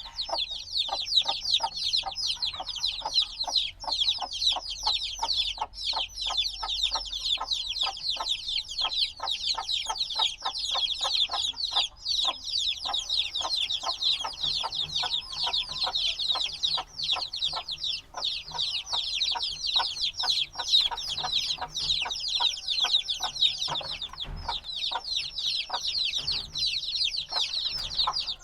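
A brood of newly hatched baby chicks peeping loudly and without pause, many short, high, downward-sliding chirps overlapping.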